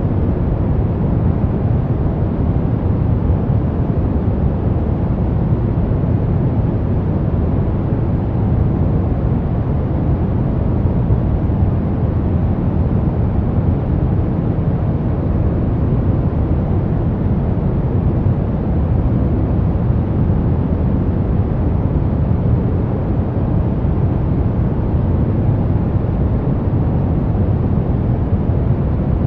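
Brown noise: a steady, even rumbling hiss, strongest in the bass and thinning toward the treble, with no changes.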